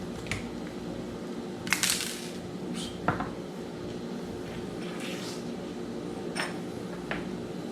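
Small metal parts of a Daiwa Strikeforce 2000B spinning reel clicking and clinking as the reel is taken apart by hand: about seven light, separate clicks, the loudest pair just under two seconds in and another about three seconds in.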